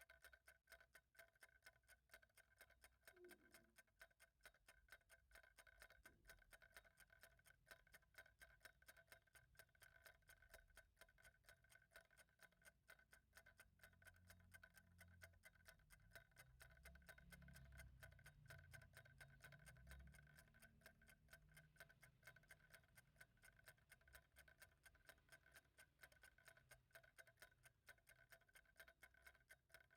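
A clock ticking faintly and steadily, with a faint low rumble in the middle.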